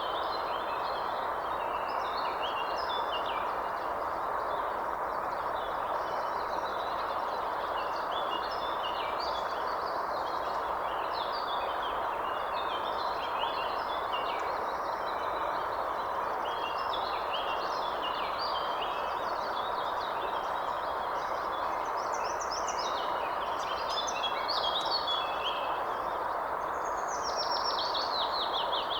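Many birds chirping and calling over a steady rushing noise, with a run of notes falling in pitch near the end.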